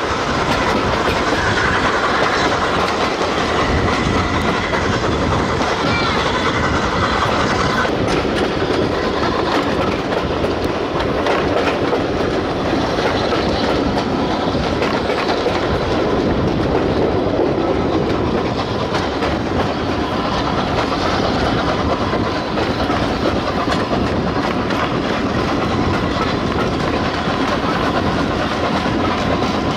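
A train running along the track, its wheels clattering steadily over the rail joints.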